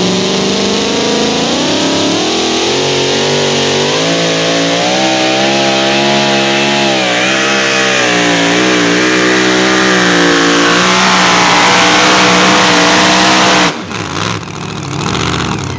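Competition pulling vehicle's engine at full throttle under load during a hook, its pitch climbing and then wavering up and down as the load changes. The engine sound drops off abruptly near the end.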